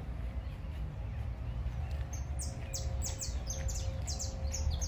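A bird singing: a quick run of high chirps, each sliding down in pitch, starting about two seconds in, over a low steady rumble.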